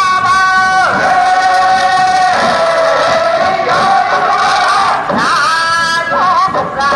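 Singers performing a Japanese fishermen's folk song for a big catch, the long held notes wavering and gliding in the ornamented folk style. The voice drops to a lower note about a second in and climbs back up near the end.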